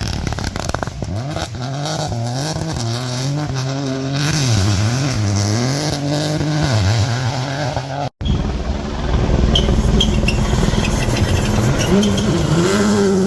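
Rally car engine at full throttle, its pitch climbing and dropping again and again through gear changes and lifts. It cuts out abruptly about eight seconds in, and another car's engine revs up near the end.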